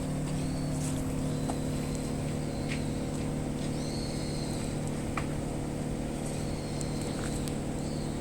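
Air conditioner outdoor unit running with a steady hum and a thin high whine, with scattered light ticks; the unit is making an abnormal noise.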